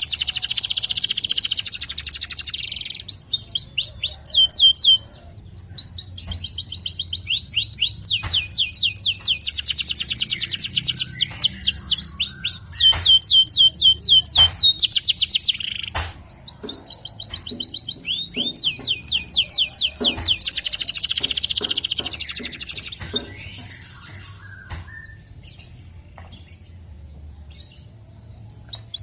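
Local Indonesian canary singing long, fast trills of rapidly repeated high sweeping notes, with brief pauses between phrases. About three-quarters of the way through, the song dies down to a few faint scattered notes.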